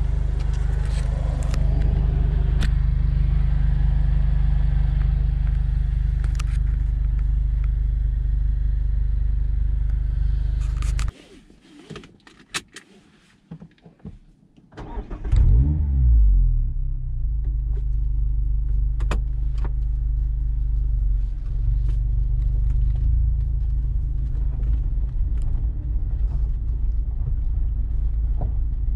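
Mazda MX-5 RF's four-cylinder engine with an aftermarket Cobalt exhaust running steadily, then cut off abruptly about eleven seconds in. A few clicks sound in the quiet, then the engine is started again about fifteen seconds in, with a brief rev flare before it settles back to a steady idle.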